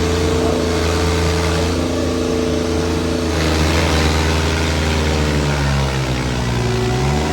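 Eicher 557 tractors' diesel engines running hard under heavy load in a tug-of-war pull. The engine pitch sags slowly through the second half, then picks up sharply near the end.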